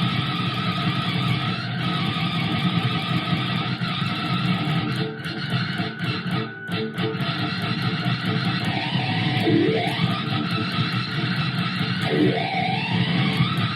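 Electric guitar played through a wah pedal, the tone sweeping up and down; two clear rising wah sweeps come in the second half.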